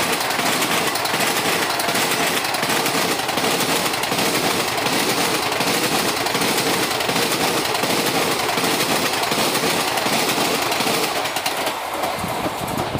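Passenger express coaches racing past close by, their wheels clattering rapidly and steadily over the rail joints. The clatter fades near the end as the last coach goes by.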